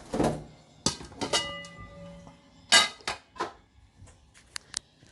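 Metal cookware clinking and knocking as a pot of curry chicken is checked: several sharp clinks, one about a second in ringing briefly like a struck pot lid, then a few lighter ticks near the end.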